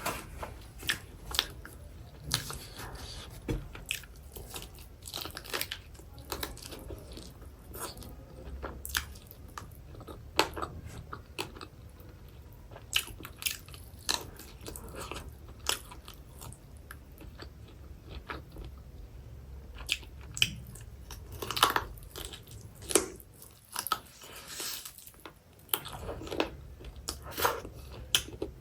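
A person eating close to the microphone: crunchy bites and chewing, with many sharp, irregular crunching clicks throughout and a brief lull near the end.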